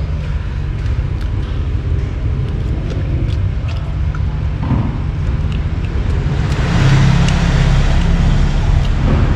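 Road traffic passing, a steady low rumble of engines and tyres, swelling louder from about six and a half seconds in as a vehicle goes by, with faint scattered ticks over it.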